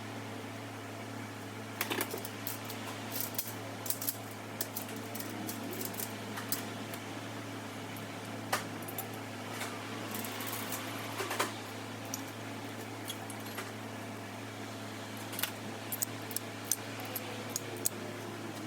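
Scattered light metallic clinks and clicks of tools and engine parts being handled during reassembly of a 5.3-litre V8, over a steady mechanical hum.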